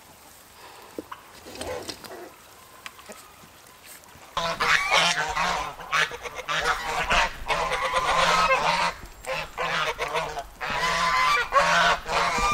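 A flock of domestic geese honking loudly, many calls overlapping, starting about four seconds in after a quieter stretch.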